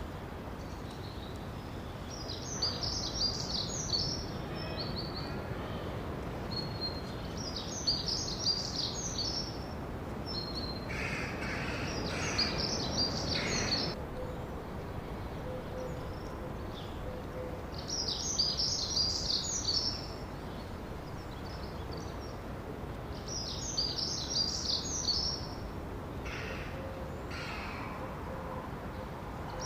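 A songbird repeating a short, high song phrase about every five seconds, each phrase lasting about two seconds, over steady background noise. Lower-pitched calls join twice, about halfway through and near the end.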